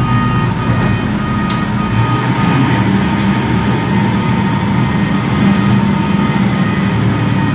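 Reach stacker's diesel engine running steadily with a low drone, and a faint steady whine above it.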